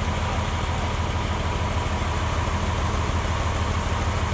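Band sawmill machinery running steadily: a low engine-like hum with a faint, steady high tone above it.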